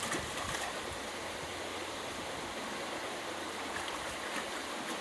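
Small wild stream running, a steady rush of water.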